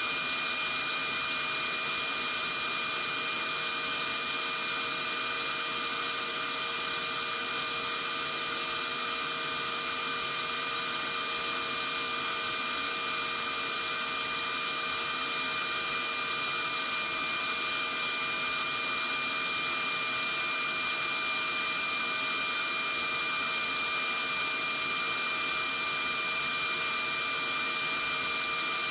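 Vacuum cleaner running steadily, with no change throughout: a constant airy rushing noise, heaviest in the highs, with a steady high-pitched whine on top.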